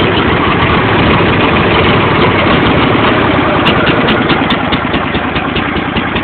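John Deere L111 lawn tractor's 20 hp Briggs & Stratton V-twin running steadily just after a cold start, with the choke partly on. A few faint ticks come about four seconds in.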